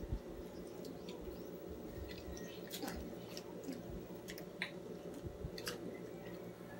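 People eating roast chicken and rice: chewing and squishy mouth sounds with scattered small clicks and taps, over a steady low hum.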